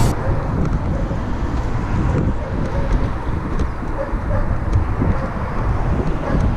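Wind buffeting a microphone carried on a moving bicycle, a steady low rumble with road noise.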